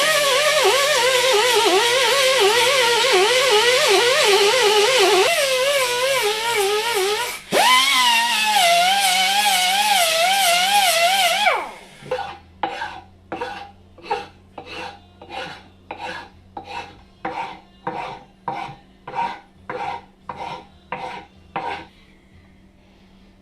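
A power tool runs under changing load for about eleven seconds, its pitch wavering, with a brief stop and restart about seven and a half seconds in. It is followed by about sixteen even back-and-forth strokes of a hand file or rasp, roughly one and a half a second.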